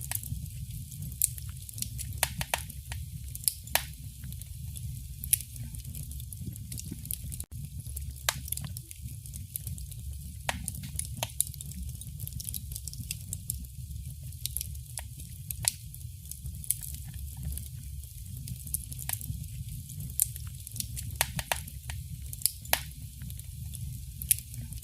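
Wood fire crackling in a fireplace: irregular sharp pops and snaps over a steady low rumble. The sound drops out for an instant about seven seconds in.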